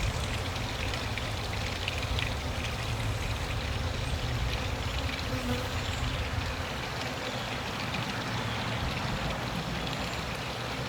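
Steady, dense buzzing of a crowd of honey bees swarming over extracted honey frames to feed on the leftover honey.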